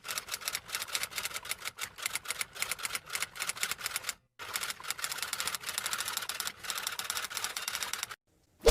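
Rapid typing: a quick, uneven run of keystroke clicks, typewriter-like, pausing briefly about four seconds in and stopping just before the end. A short loud hit follows right at the end.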